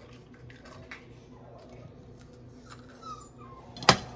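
Dog whimpering briefly while waiting to be fed, over small clicks of kitchen handling, with one sharp clack near the end.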